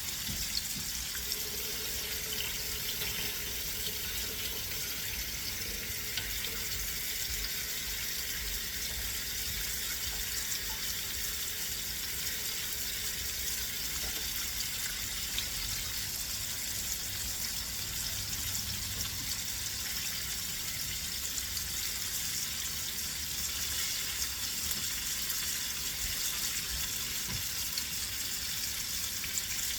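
Chicken pieces frying in hot oil: a steady sizzle with fine crackles.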